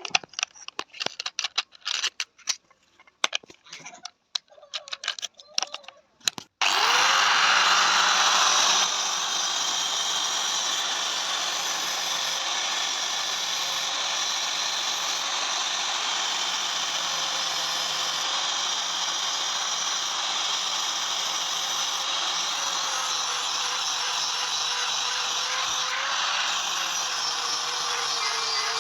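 Irregular sharp metal strikes for the first six seconds or so, then suddenly a power tool running steadily with a slightly wavering whine.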